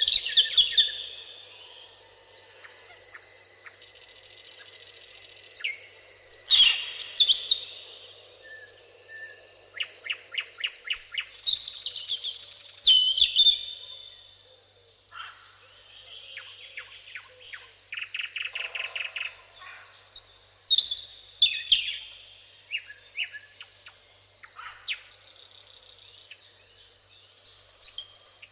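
Several songbirds singing and calling at once: short chirps, warbled phrases and fast trills of repeated notes, some close and loud. Underneath runs a steady high-pitched thin tone.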